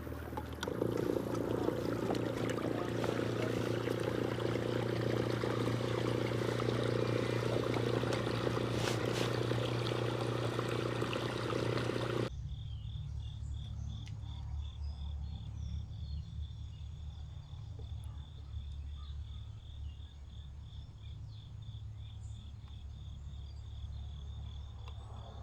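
A small motor humming steadily for about twelve seconds, then cutting off abruptly. After that, an insect trills in a fast, even pulse over a low rumble.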